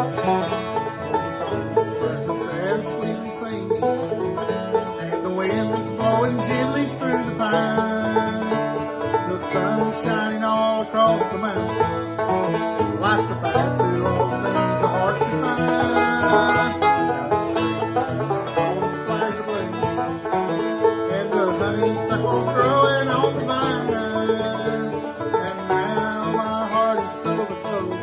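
Bluegrass music picked on banjo and acoustic guitar, played steadily without a break.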